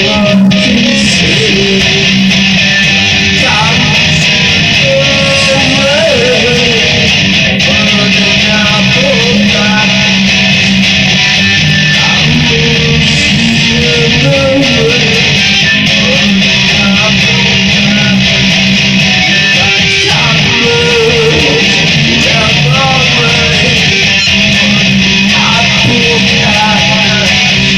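Electric guitar with mild distortion playing an instrumental passage, strummed chords with picked melody notes over them, recorded on a phone.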